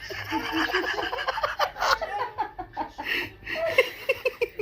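A person laughing in a run of short bursts.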